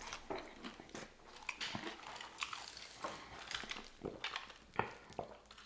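People chewing and biting into fried chicken wings: soft crunches and irregular clicks and smacks of the mouth.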